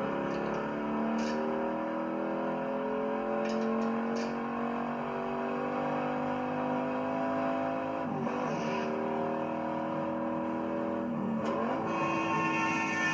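V8 muscle-car engine pulling hard, its pitch climbing steadily. The climb breaks at a shift about eight seconds in and again near the end, with a few sharp knocks in the first few seconds.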